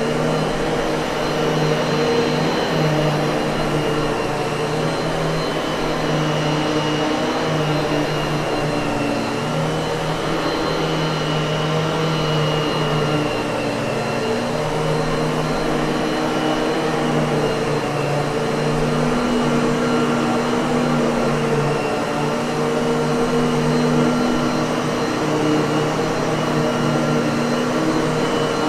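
Miele vacuum cleaner running steadily, a continuous motor hum and rush of air with a slight wavering in pitch.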